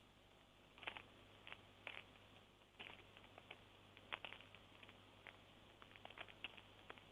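Near silence with a faint low hum and scattered faint irregular clicks.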